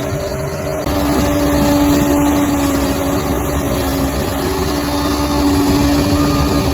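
Bulldozer's diesel engine running steadily, becoming abruptly louder just under a second in.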